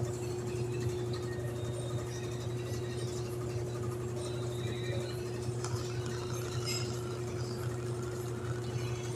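Samsung 10.5 kg Wobble top-load washing machine in its final spin: a steady motor hum with a constant whine, holding one even speed.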